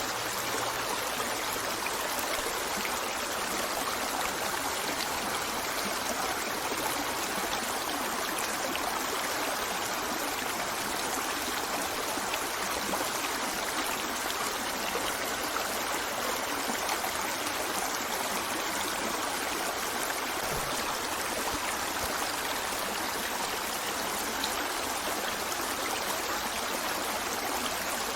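Running stream water, an even, steady rush with no pauses or changes.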